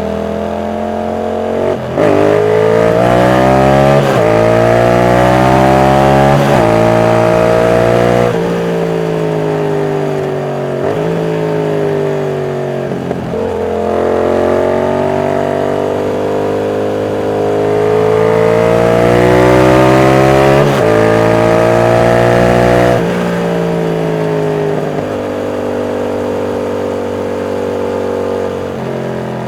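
Yamaha MT-07's CP2 parallel-twin engine pulling hard through the gears: the pitch climbs and drops sharply at each upshift, sags as the throttle is eased, then climbs again through more upshifts before settling to a steadier, lower note near the end.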